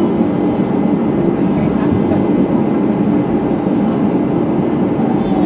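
Airbus A320-211 jet engines heard from inside the passenger cabin at high power during takeoff and climb: a steady loud rumble of engine and air noise with a low hum.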